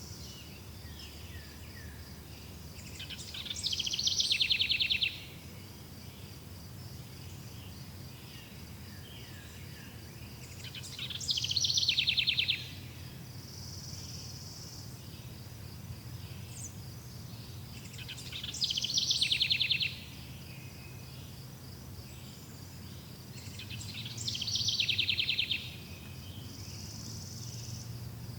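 A songbird repeats the same song phrase four times, about every seven seconds; each phrase is about two seconds long and ends in a fast buzzy trill. Under it runs a steady high insect trill, with a faint low rumble.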